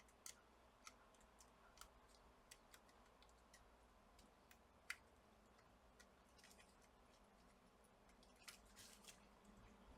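Near silence with a few faint, scattered clicks from a laptop motherboard and a new charging port being handled and test-fitted; the sharpest click comes about five seconds in.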